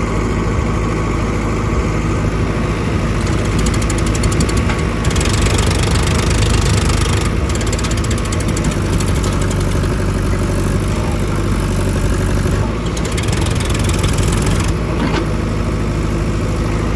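Powertrac Euro 50 tractor's diesel engine running steadily, getting a little louder about five seconds in and easing back slightly about three-quarters of the way through.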